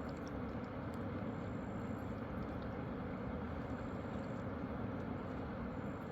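Steady rushing of river water: an even, unbroken noise that holds the same level throughout.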